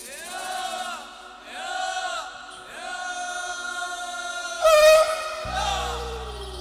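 Male voice singing a Turkish uzun hava, a slow free-rhythm folk song, in long ornamented notes that waver in pitch. The loudest note comes about five seconds in and then slides downward, and a low instrumental drone comes in underneath near the end.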